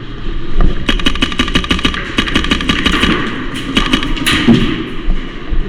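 Airsoft guns firing in rapid bursts: a fast run of sharp cracks, many a second, starting about a second in and dying away after about four seconds.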